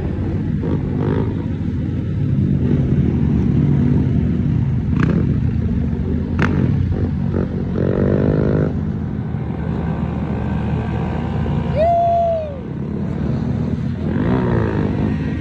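Small-displacement mini bike and motorcycle engines running and revving, with a rev climbing in pitch about eight seconds in. A brief high whoop from a voice cuts across near twelve seconds.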